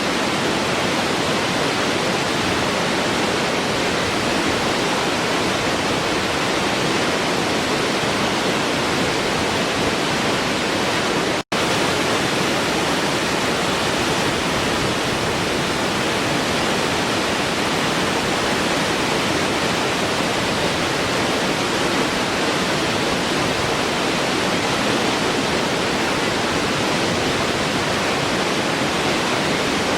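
Waterfall: a steady, even rush of falling water. The sound cuts out for an instant about a third of the way through, then carries on unchanged.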